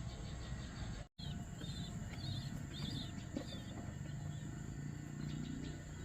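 Birds chirping in a quick run of short calls for about two seconds, over steady outdoor background noise, with a brief cut-out of all sound just before they start.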